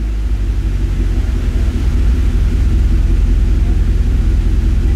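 2014 Camaro SS's 6.2L L99 V8 idling steadily when fully warm, with oil at about 210°F.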